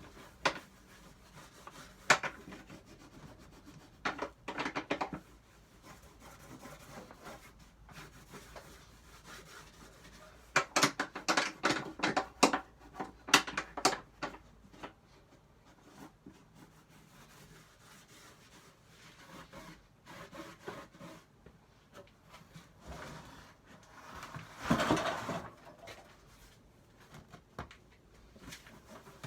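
Hand work on a wooden tool box: intermittent rubbing and scraping on wood, with scattered sharp knocks and clicks, a quick run of clicks about halfway through and a longer scrape near the end.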